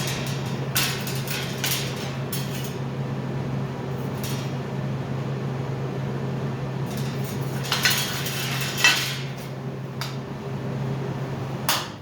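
Welding arc running a bead: a steady electrical hum with constant crackling and sharper pops, cutting off abruptly shortly before the end as the weld stops.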